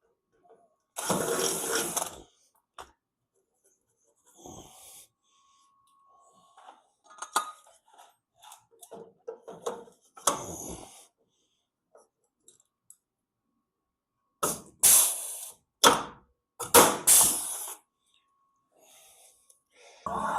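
Workshop tool noise from refitting a car's bumper overriders with 5 mm rivets: short irregular bursts, with one about a second in and a cluster of several loud ones near the end.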